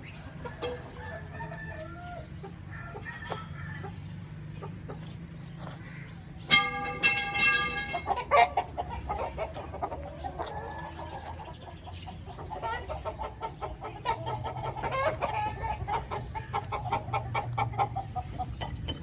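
Young Aseel rooster crowing once, a loud crow starting about six and a half seconds in and lasting about a second and a half, with short clucking calls before and after. A low steady hum runs underneath.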